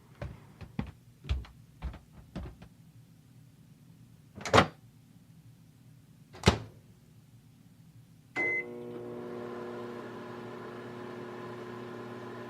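A run of light knocks and two loud clunks, then a short beep about eight seconds in. After it a microwave oven starts running with a steady hum.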